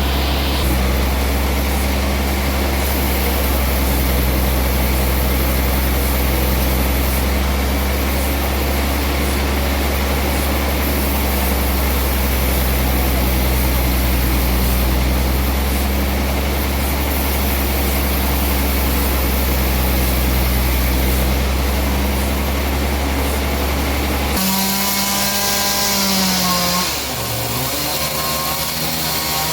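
Sawmill machinery sawing a large trembesi log, running steadily with a deep hum. About 24 seconds in, the sound changes abruptly to a saw's whine that bends up and down in pitch as it works through the wood.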